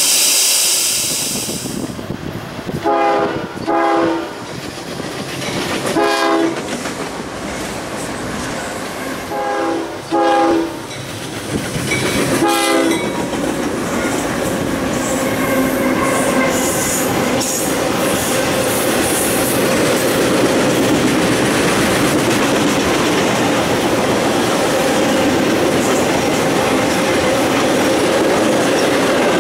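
CSX diesel freight train: the locomotive horn sounds a series of short blasts as the train approaches. From about halfway on, the lead locomotives and then the long string of intermodal well cars roll past close by, with steady rumble and clatter of wheels on the rails.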